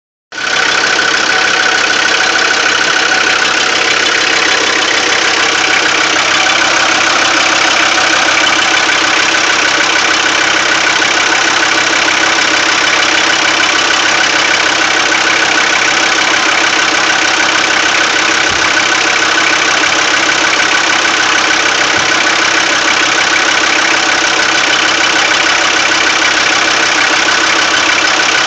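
Diesel engine idling steadily with a knock from a fuel injector, which the mechanic puts down to vibration of the injector fuel lines.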